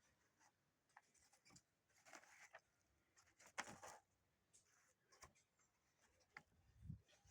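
Faint handling noises: light taps, clicks and short rustles or scrapes, with the loudest rustle about three and a half seconds in.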